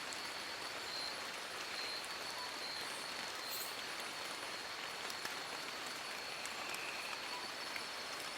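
Steady rain falling on forest leaves, an even patter without breaks. A thin, high, steady tone runs underneath it throughout.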